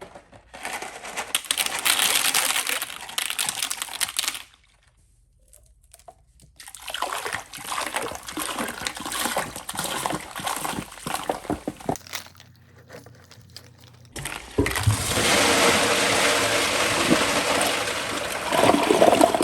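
Liquid and objects splashing into a toilet bowl in two spells, then a toilet flushing with a loud steady rush of water starting about three-quarters of the way through.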